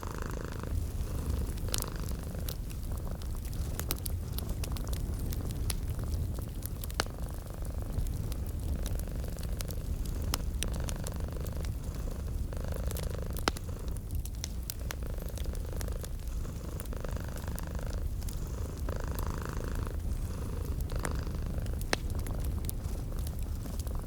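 Domestic cat purring steadily in a low, continuous rumble, with scattered sharp pops and crackles from a wood fire.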